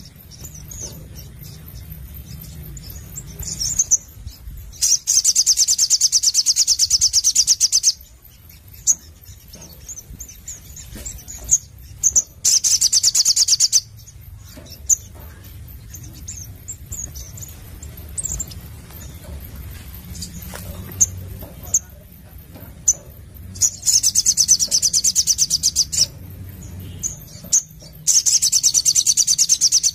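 Little spiderhunter (sogon) calling: four long runs of rapid, evenly repeated high notes, with single sharp chips in between. A faint low hum runs underneath.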